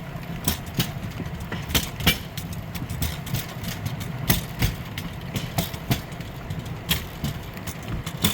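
Rail bike rolling along old steel rails: a steady low rumble from the wheels, with frequent sharp, irregular clicks and clacks as they run over the track.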